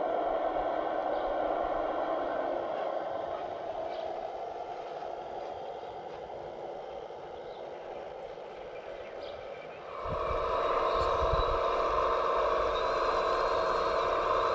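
Whine of a radio-controlled model construction machine's electric motor and hydraulic pump: a steady hum that slowly fades, then about ten seconds in a louder, higher whine starts abruptly with a low rumble beneath.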